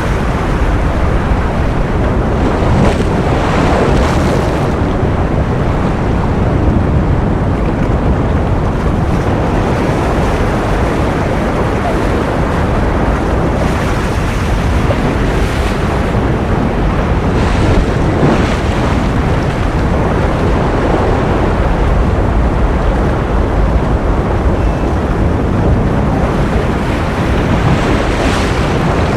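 Ocean surf: a loud, steady wash of noise, with brief brighter swells now and then as waves break.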